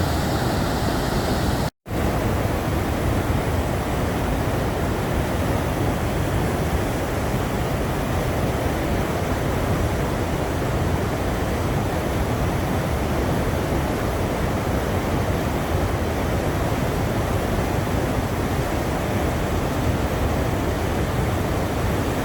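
Waterfall with a steady, loud rush of falling water. The sound cuts out for a moment about two seconds in.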